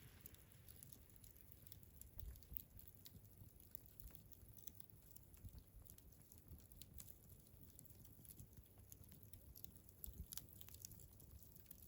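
Faint crackling of a wood campfire: scattered small, irregular pops and snaps from the burning wood.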